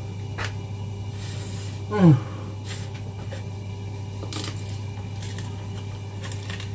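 A short, falling 'mmm' of someone savouring food about two seconds in, over a steady low hum, with a few faint clicks of eating and handling the food.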